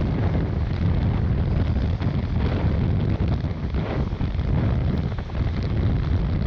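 Strong wind buffeting the microphone: a loud, steady, gusting low rumble.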